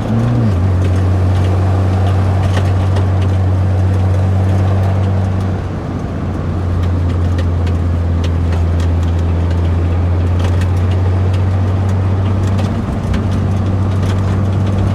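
BMW N54 twin-turbo inline-six in an E30 running under way on the road, a steady engine drone that drops in pitch just after the start and briefly eases off twice. The driver finds it running smoother after its clogged direct injectors and ports were cleaned.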